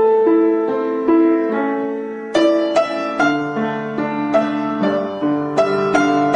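Solo piano playing a slow, gentle melody, notes struck one at a time and left to ring and fade.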